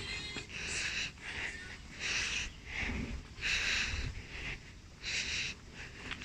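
A person breathing heavily close to the microphone, one breath about every second and a half, over a low rumble.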